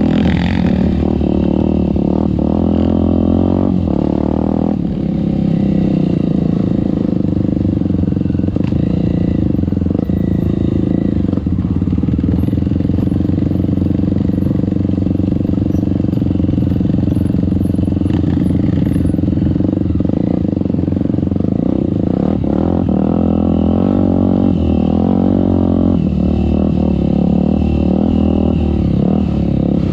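Trail motorcycle engine running steadily as it is ridden, its pitch rising and falling with the throttle in the first few seconds and again in the last third.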